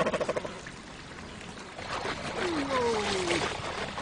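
Water splashing and sloshing, with a falling, drawn-out call about two and a half seconds in, as cormorants are sent into the water for fishing.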